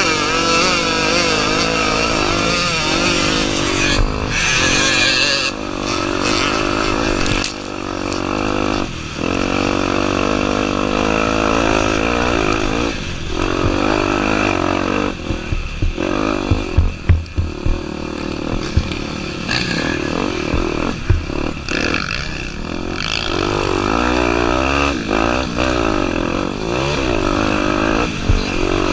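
Honda Tornado 250's single-cylinder four-stroke engine running under varying throttle, its pitch rising and falling as the bike is ridden off-road. There is a cluster of sharp knocks and rattles about sixteen to eighteen seconds in.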